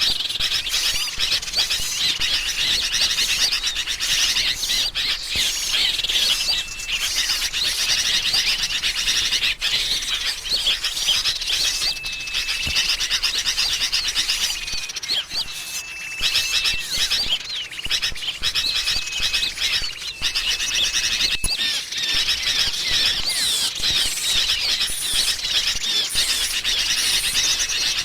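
Bird-lure recording of agitated sooty-headed bulbuls mixed with small songbirds, a dense, unbroken chorus of excited chattering and chirping. Several level whistled notes, each about a second long, sound through it.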